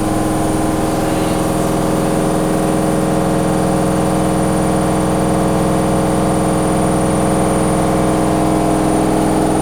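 Candy washer-dryer running with a steady, unchanging motor hum.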